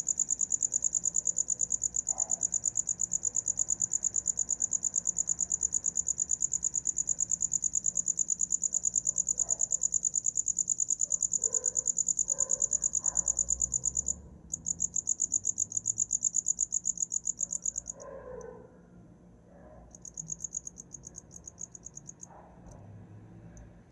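A cricket chirping: a rapid, high-pitched pulsing trill. It breaks off briefly about 14 seconds in, stops at about 18 seconds, then comes back in a short bout and a few faint chirps near the end.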